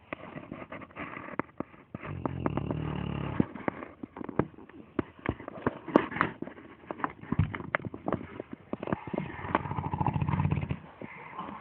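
Sleeping Dogue de Bordeaux snoring loudly: two long, low, rattling snores, one about two seconds in and one near the end, with short sharp clicks between them.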